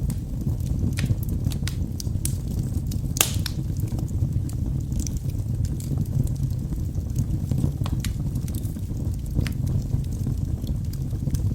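Wood fire burning in a fireplace: a steady low rumble of the flames with irregular sharp crackles and pops from the burning logs, the loudest pop about three seconds in.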